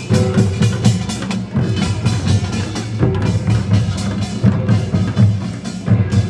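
Korean nongak (farmers' band music) in the Gyeongsang-do style: drums beating a fast, dense rhythm with sharp metallic strokes over it.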